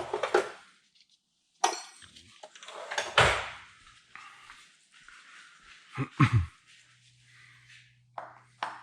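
Irregular knocks and scrapes of hand tools on sheet metal, about five separate clatters, with a faint low hum near the end.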